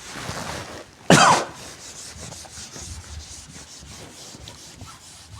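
Faint rubbing and scratching of hand drawing or writing, with a short throat-clearing sound about a second in.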